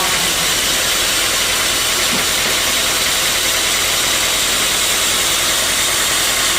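Sawmill machinery running with a loud, steady mechanical noise that does not change.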